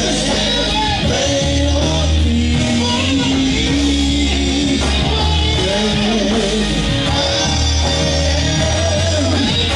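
Live gospel band music: a steady bass line and band backing with a wavering melodic lead over it.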